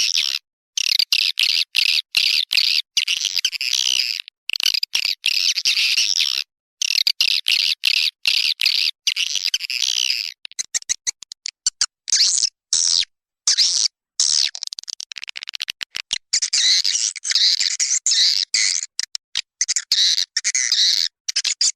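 Recorded swiftlet calls: dense, rapid, twittering chatter played as a swiftlet-house lure call track. It comes in runs of a second or two cut by abrupt silent gaps, choppier about halfway through and denser near the end.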